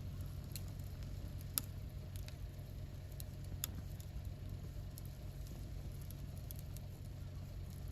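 Wood campfire burning, with irregular crackles and sharp pops over a steady low rumble; the loudest pop comes about a second and a half in.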